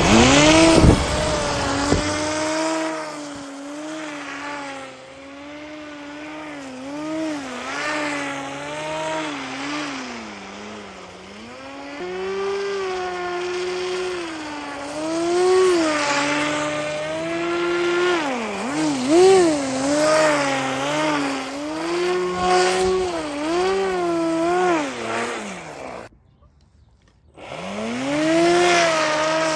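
Radio-controlled car's motor revving up and down under changing throttle, its pitch rising and falling over and over. The sound drops out for about a second near the end, then comes back revving.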